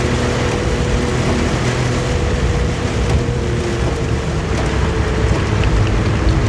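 Suzuki Jimny SJ30's two-stroke three-cylinder engine running at a steady speed on the move, under a constant wash of heavy rain and wet-road noise.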